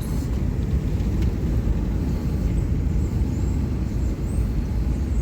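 Steady low rumble of a car on the road: engine and tyre noise.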